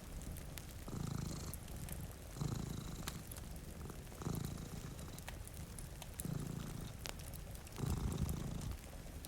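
Domestic cat purring close up, swelling in a pulse about every one and a half to two seconds with each breath, over a steady rain hiss and light crackles from a fireplace.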